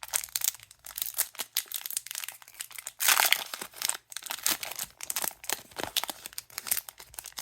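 Crinkling of a trading-card booster pack wrapper being handled and torn open, with a louder tearing stretch about three seconds in.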